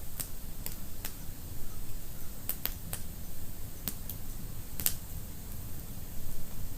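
Fire in a fireplace crackling: irregular sharp pops and snaps, a cluster of them about two and a half seconds in and a loud one near five seconds, over a low steady rumble of the flames.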